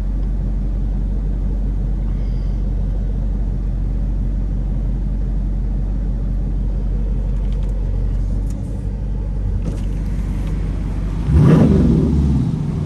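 Straight-piped Dodge Durango SRT's 6.4-litre HEMI V8 idling with a steady low rumble, then the throttle opens about eleven seconds in and the engine note jumps loudly and rises in pitch.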